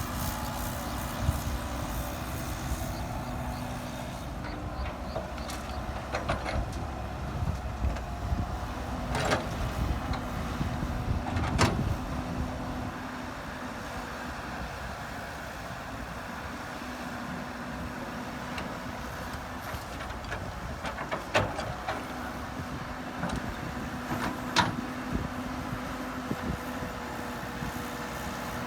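Heavy diesel construction machinery running steadily, with a few sharp metallic knocks spread through.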